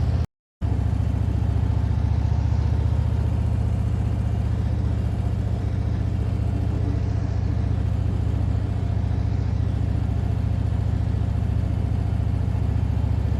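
Harley-Davidson V-twin motorcycle engine at a steady cruise, heard from the bike with road and wind noise. The sound cuts out completely for a moment just after the start.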